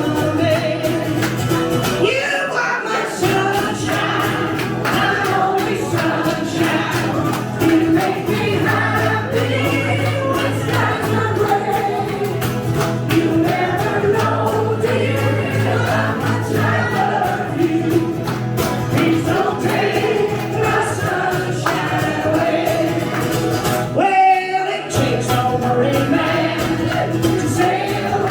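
Live music: singing with instrumental accompaniment over a sustained low bass note, with what sounds like several voices singing together. The low accompaniment drops out briefly twice, about two seconds in and near the end.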